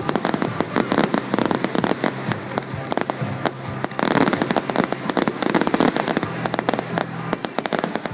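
Fireworks display: a dense run of rapid crackling bangs and pops, many a second, with no break.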